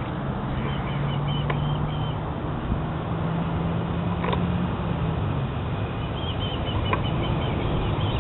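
Birds chirping in short runs, near the start and again near the end, over a steady low hum and outdoor noise from a train still far off down the line.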